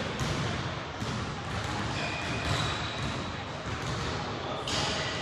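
Basketball bouncing on the court during a game, with voices in the background.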